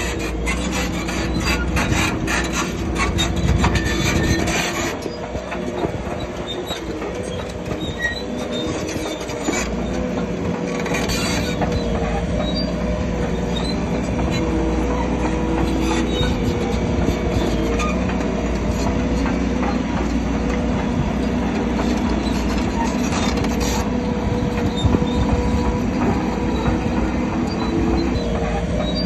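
Crawler bulldozer working: its diesel engine running, with the steel tracks squealing and clanking. A dense rattling clatter runs through the first five seconds.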